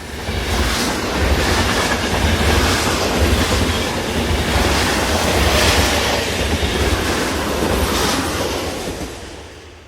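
Train rolling past, its wheels clattering over the rail joints in a low, uneven rhythm; the sound swells in at the start and dies away near the end.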